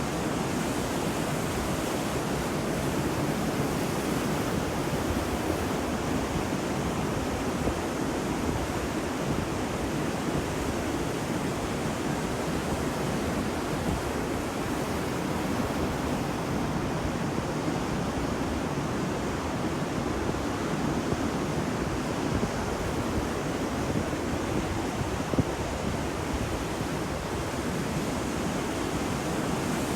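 Ocean surf washing on a beach as a steady, unbroken rush with no distinct wave breaks, with some wind on the microphone.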